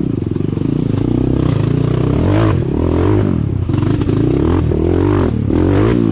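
Dirt bike engine revving up and down again and again while working under load, with scraping and clattering from the machine.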